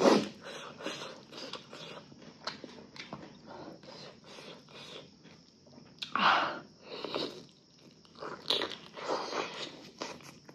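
A person chewing and biting food, with crunches and many small wet mouth clicks, louder bursts right at the start and about six and nine seconds in.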